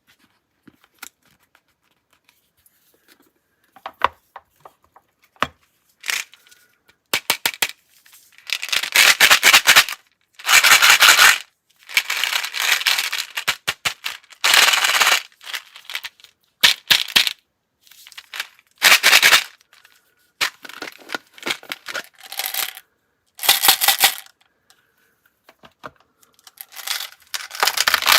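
Scratchy paper noise: a few sharp clicks, then repeated rough scratching and rustling strokes, each lasting a second or two, with short gaps between them.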